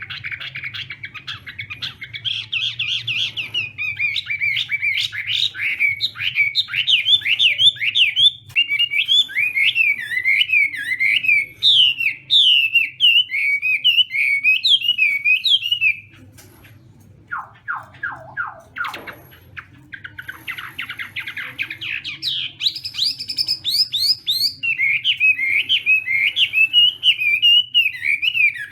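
Chinese hwamei singing a long, fast run of varied whistled phrases. The song breaks off about sixteen seconds in, where a few lower sweeping notes are heard, then starts again about four seconds later.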